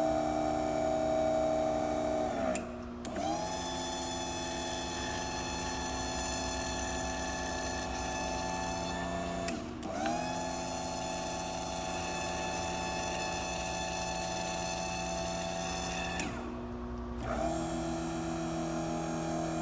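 Hydraulic pump motor of an Insta-Trim trim tab system running with a steady whine as it drives the tabs. It winds down and starts up again three times, as the tabs are switched between moves.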